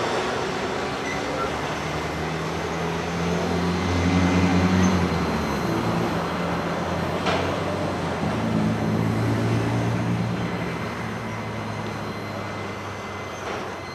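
Loaded autorack freight cars rolling past on the rails: a steady rumble of steel wheels with a low, wavering hum and a couple of sharp clanks. It gets gradually quieter near the end as the tail of the train goes by.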